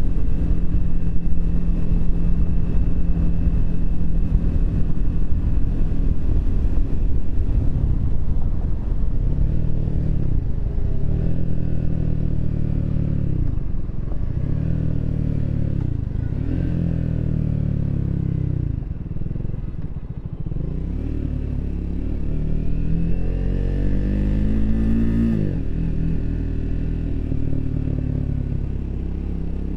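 Triumph Speed 400's single-cylinder engine and exhaust under way, steady at first, then the engine speed rising and falling several times through the middle. Near the end it climbs for a few seconds, drops sharply at a gear change, and settles into a steady run.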